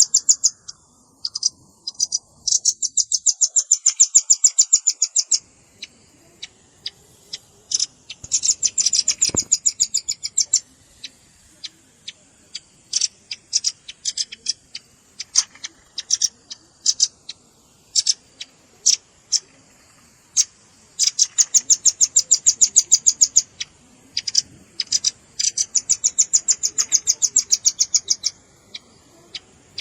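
Velvet-fronted nuthatch calls played as a bird-lure recording: several rapid trills of high, sharp chips, each lasting two to three seconds, with scattered single chips between them.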